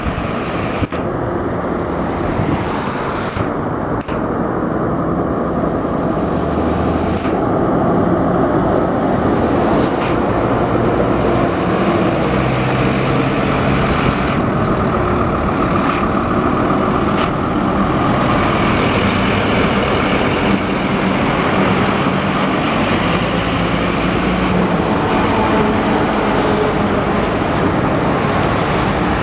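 Scania P310 truck's diesel engine running steadily, its low note shifting up and down in steps.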